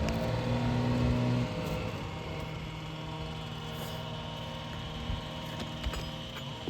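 An engine running steadily, a little louder for the first second and a half, with a few light taps.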